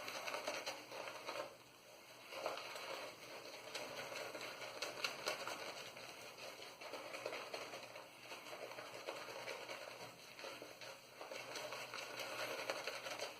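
Omega 10075 boar-bristle shaving brush worked in circles over Proraso Red lather on the face: a steady soft wet crackle of bristles and bubbles, pausing briefly about two seconds in. The lather is fairly wet, with what he thinks is a little too much water.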